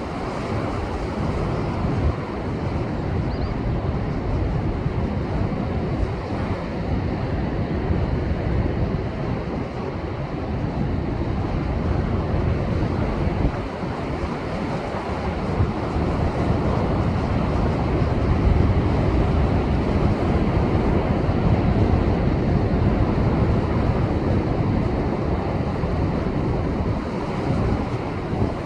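Heavy surf churning and breaking against shore rocks in a continuous rushing wash, the rough seas left behind by a passing typhoon, with wind on the microphone adding a low rumble.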